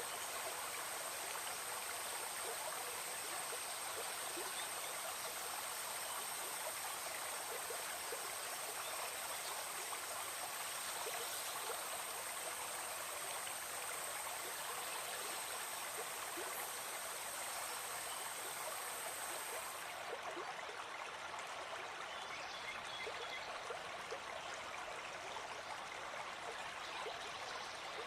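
Steady rushing and trickling of a forest stream. A thin, high, steady whine runs over it and stops about two-thirds of the way through; the highest part of the hiss drops away at the same moment.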